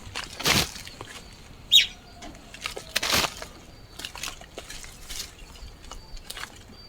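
Digging garden soil with a hand tool to cut a waterway: two louder scraping strokes about two and a half seconds apart, with fainter scrapes between them. A brief sharp high-pitched sound stands out just before two seconds in.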